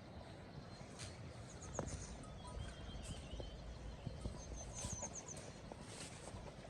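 Small birds calling in short runs of quick, high chirps, repeated a few times over faint outdoor background noise, with a few soft knocks.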